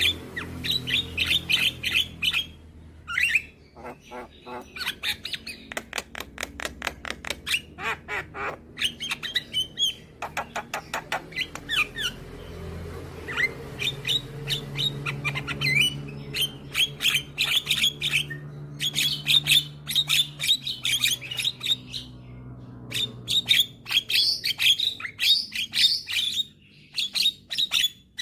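Javan myna (jalak kebo) singing in lively bouts: rapid harsh chattering notes and clicks, with short pauses between bursts.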